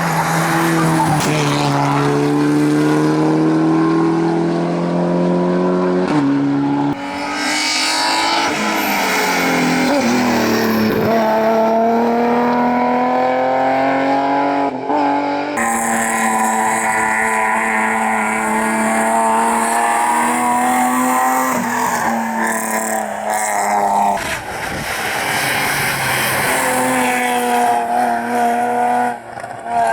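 Rally car engines at high revs, the pitch climbing and then dropping sharply at gear changes several times over.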